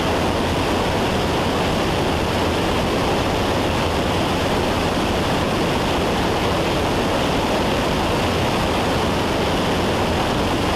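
Steady cabin drone of a Cessna 172's engine and propeller in cruise flight, mixed with wind noise, unchanging throughout.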